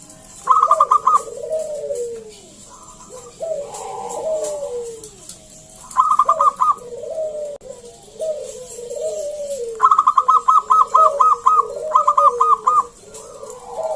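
Zebra dove (perkutut) song: four bursts of quick, clipped notes, the longest near the end, woven with lower, drawn-out coos that slide down in pitch.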